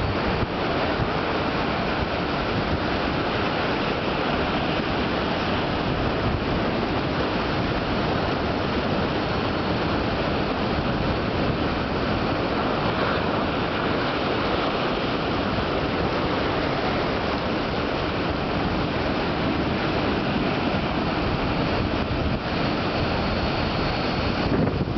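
Big ocean waves breaking at an inlet, a steady, unbroken rush of surf, with wind buffeting the microphone.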